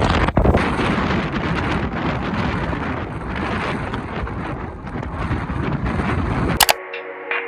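Strong wind buffeting a phone's microphone, a dense rumbling rush. It cuts off abruptly with a click near the end, and soft ambient music takes over.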